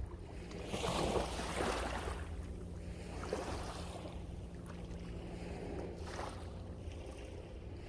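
Sea waves breaking and washing on the shore, the largest surge about a second in and smaller ones after. Strong wind rumbles steadily on the microphone underneath.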